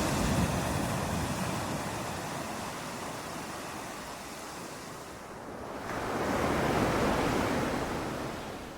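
Ocean waves breaking on a beach: one wash fades out over the first few seconds, then another wave swells in about six seconds in and recedes near the end.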